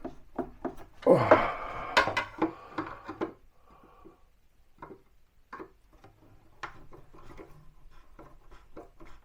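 Scattered knocks and clicks from a wall cabinet unit being shifted and pushed into place against its neighbour, preceded by a brief indistinct voice about a second in.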